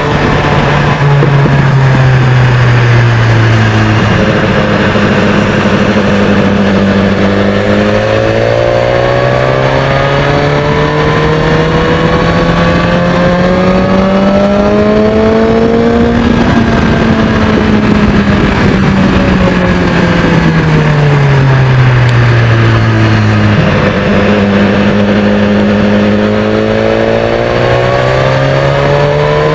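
BMW S1000XR inline-four engine running through a Termignoni exhaust, its revs changing slowly and smoothly. The pitch falls over the first few seconds, holds, climbs steadily to a peak about halfway, falls again and starts to climb near the end.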